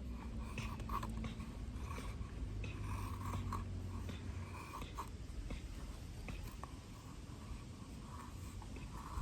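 Light, irregular scraping and small clicks of hand work on wood, over a low steady rumble.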